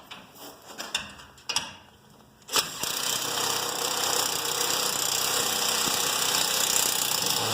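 A few light clicks and knocks of handling, then a cordless power driver runs steadily for about five seconds, driving a lag bolt into the wall, and stops abruptly.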